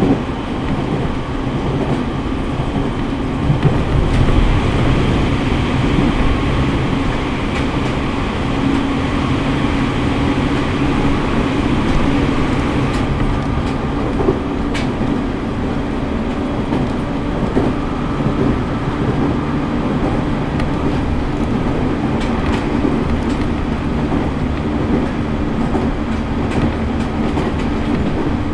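JR East E501 series electric train running at speed, heard from inside the car: a steady rumble of wheels on rail with a steady hum, and now and then the clack of rail joints.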